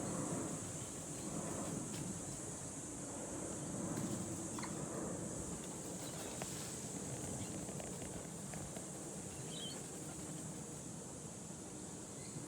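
Steady high-pitched insect drone over a low background rumble, with a couple of brief faint chirps.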